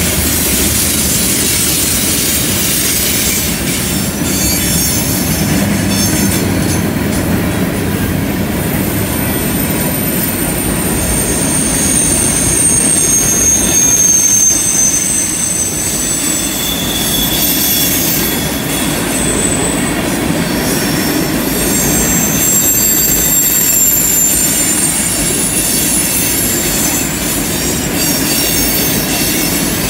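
Freight train tank cars rolling past on a curve: a steady rumble of steel wheels on rail, with high wheel-flange squeals that come and go as the cars round the curve.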